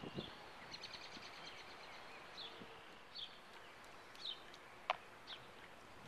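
Small birds chirping in short, high calls, with a brief trill near the start, over a steady outdoor hiss. A single sharp click sounds about five seconds in.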